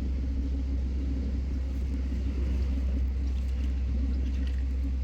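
A machine's engine running steadily, a constant low rumble with no change in speed.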